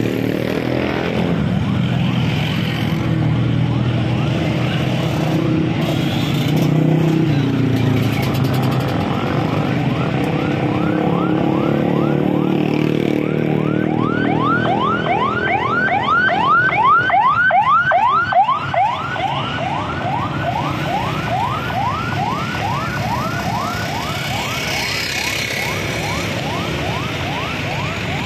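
Busy street traffic with vehicle engines running. From about ten seconds in, an electronic siren yelps in quick rising sweeps, about three a second, loudest a little past the middle.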